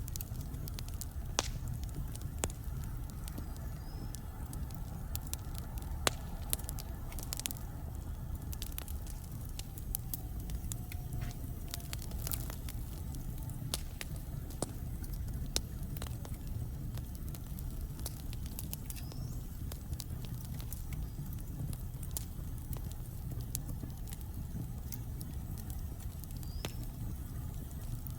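Wood logs burning in a fireplace: irregular sharp crackles and pops over a steady low rumble of the fire, with a few faint brief high whistles.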